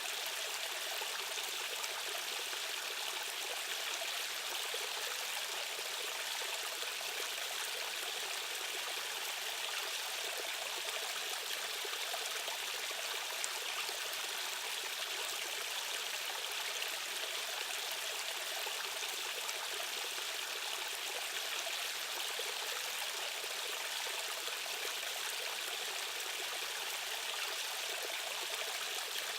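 Running water of a stream or waterfall: a steady, even rushing with a bright hiss and little low rumble.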